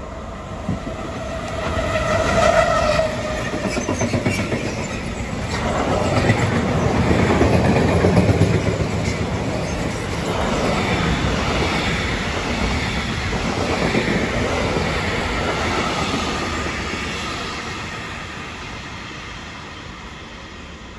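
Freight train passing at speed: a red DB Cargo EG-class electric locomotive gives a steady tone as it nears, loudest about two and a half seconds in. Then its long rake of covered wagons rumbles and clatters over the rails, loudest a few seconds later, and slowly fades as it draws away.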